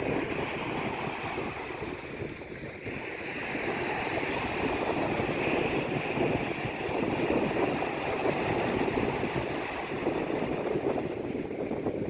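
Sea waves washing in and out, a steady rush that swells louder a few seconds in, eases off and rises again near the end.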